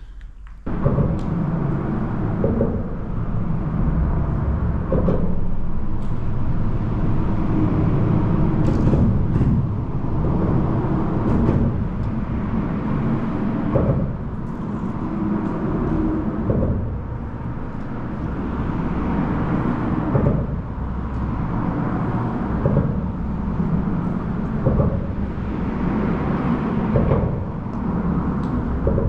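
Road traffic rumbling on the bridge overhead, a steady low drone with short thumps every two to three seconds.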